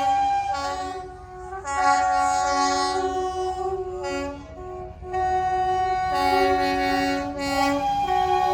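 Several locomotive whistles and horns sounding together in a whistle-off. They give overlapping sustained blasts at different pitches, which break off briefly and start again, over a low rumble.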